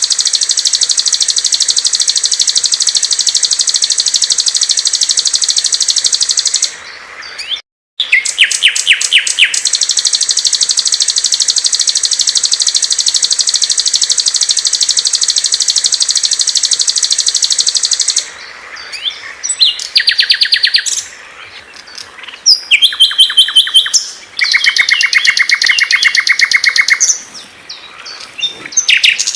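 Recorded songs of small songbirds. A long, dense, high-pitched trill runs unbroken, stops dead for a moment about eight seconds in, then resumes. Its last third gives way to short bursts of rapid repeated chirps at several different pitches.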